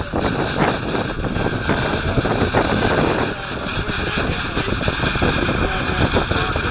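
New Holland T7.315 tractor's 6.7-litre six-cylinder diesel running with its Kuhn triple disc mower conditioner working: a loud, steady mechanical din with a constant high whine in it.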